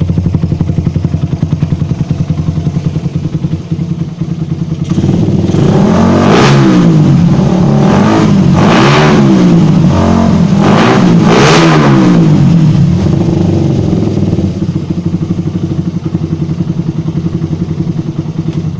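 Suzuki Satria FU 150's single-cylinder four-stroke engine running through a stainless racing exhaust, idling, then revved in several quick blips from about five seconds in and settling back to idle.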